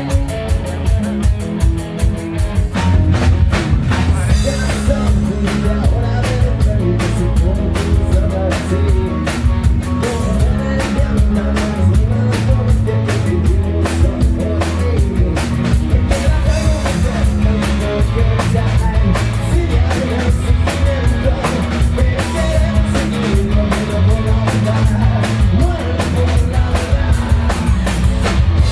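Hard rock band playing live, recorded from the audience: drum kit beating a steady rhythm under heavy bass and guitars, with some singing.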